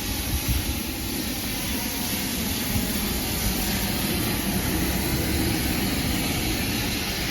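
Steam locomotive standing at the platform: a steady hiss over a low, uneven rumble.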